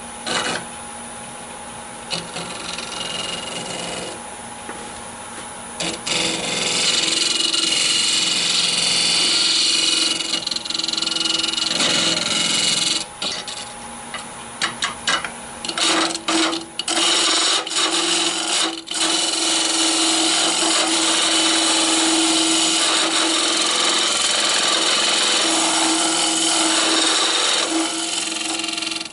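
Wood lathe running while a hollowing tool cuts the inside of a spinning olive wood blank: a steady motor hum under a loud scraping cutting noise. The cutting is lighter for the first six seconds, then loud, breaking off briefly several times in the middle as the tool leaves and meets the wood, and it stops abruptly at the end.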